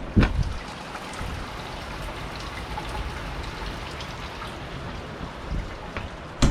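Steady rain falling, with a sharp knock just after the start and another at the end.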